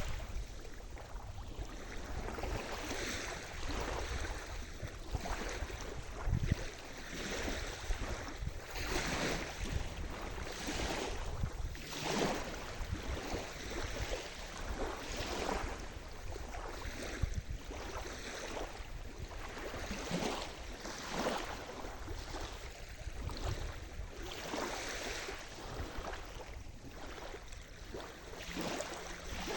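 Sea surf: waves washing in and breaking in repeated swells of noise every second or two, over a steady low rumble.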